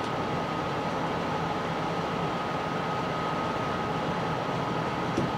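Steady mechanical hum and hiss of room machinery, with a constant high whine running through it. There is a single faint click near the end.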